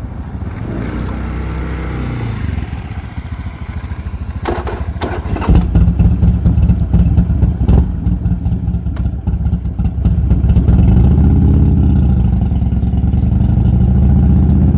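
Buell Lightning XB12S V-twin engine with an aftermarket D&D exhaust running at low revs, with a few sharp clicks about five seconds in. It then runs louder as the bike pulls away, its pitch rising and falling as it is revved.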